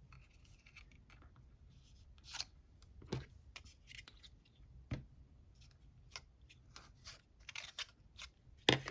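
Scissors snipping in short, separate cuts, with quiet handling rustles between.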